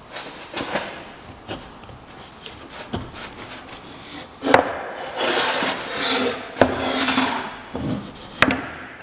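Hand work on white oak: irregular rubbing or scraping strokes against the wood, broken by several sharp knocks of wood on wood or tool on wood, the loudest near the middle and near the end.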